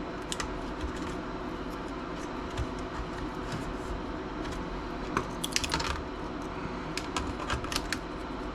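Light scattered clicks and taps of a laptop's plastic and metal parts being handled while its memory modules are worked free, with a quick run of clicks a little past the middle and another about a second later.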